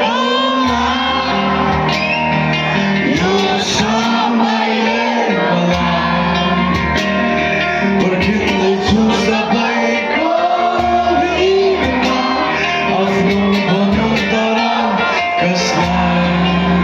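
Live band music played through a loud PA, with a singer's voice carried over sustained chords.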